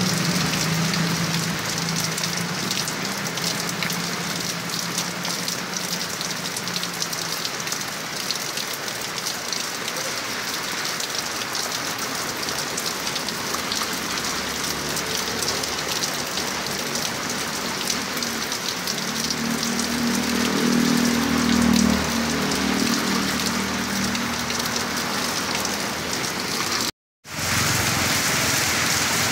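Heavy rain pouring steadily, a dense hiss of drops on surfaces. A low hum rises under it twice, briefly, and the sound cuts out for a moment near the end.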